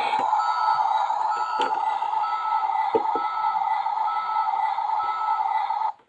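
Toy garbage truck's electronic sound effect from its small built-in speaker: a tinny, steady noise with a short beep repeating about once a second. It cuts off suddenly near the end.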